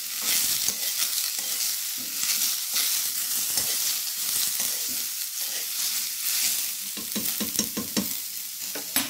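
Brinjal pieces sizzling in hot oil in a wok while a steel ladle stirs them, with a steady frying hiss and the ladle scraping and knocking against the pan, more often near the end. The brinjal is being sautéed until lightly browned.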